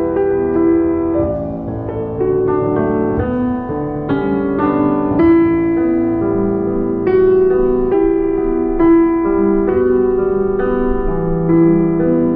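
Background piano music: a slow melody of struck notes over sustained lower notes.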